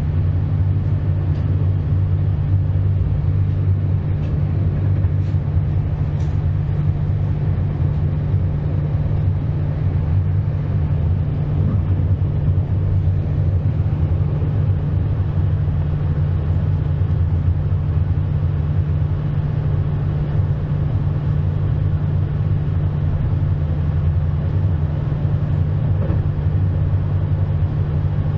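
Regional passenger train running steadily: an even low rumble and hum that holds at the same level throughout.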